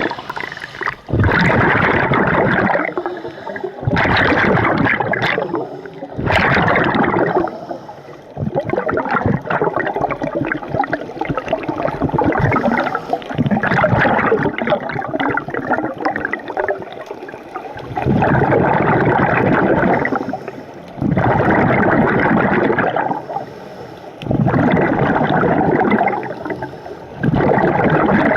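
Scuba diver breathing underwater: exhaled bubbles gurgle and rumble out of the regulator in bursts lasting a second or two, a few seconds apart.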